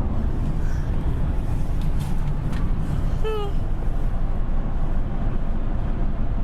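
Steady low road and engine rumble inside a moving vehicle's cabin, with a few faint clicks and one brief falling-pitch sound a little past halfway.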